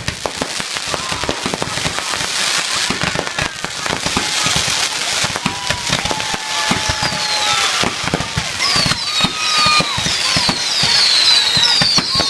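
Fireworks going off continuously: rapid bangs and crackling that build in loudness. From about nine seconds in, a run of whistling fireworks adds many overlapping whistles that fall in pitch.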